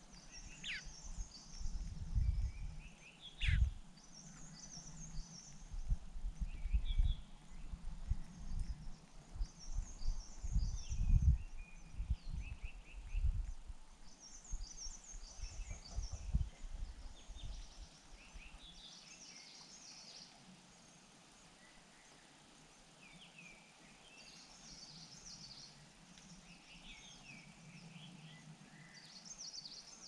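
Small birds chirping in short, high-pitched clusters, again and again. Low rumbling thumps run under them for the first half and die away about two-thirds of the way through.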